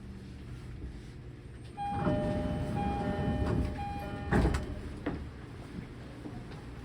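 Interior of a JR E231-series commuter car at a station stop: a two-tone door chime sounds repeatedly for about two and a half seconds, then the sliding doors close with a thud.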